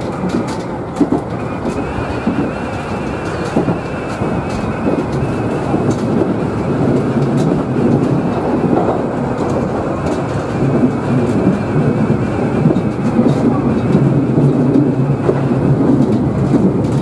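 Tobu Utsunomiya Line local electric train running, heard from inside the front of the car: a steady rumble of wheels on rail with scattered clicks over the rail joints, growing a little louder in the second half.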